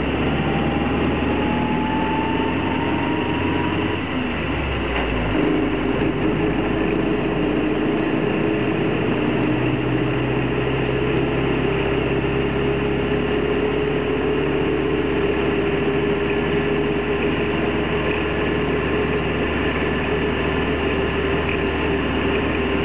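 1933 Austin Seven saloon's small side-valve four-cylinder engine and road noise, heard inside the cabin while driving on an open road. A thin whine rises in pitch over the first four seconds. About four seconds in, the sound changes and dips slightly, then the car runs on steadily with a continuous engine hum.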